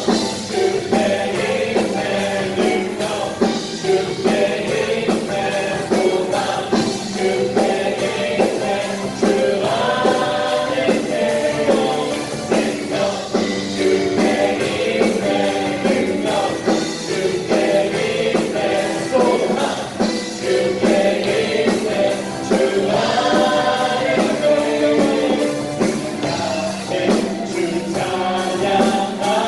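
Praise team performing a worship song: several voices singing together over a full band with a steady drum beat.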